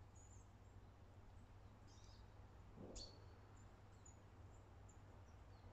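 Near silence with faint, scattered high bird chirps and one short sharp chirp or tick about three seconds in, over a low steady hum.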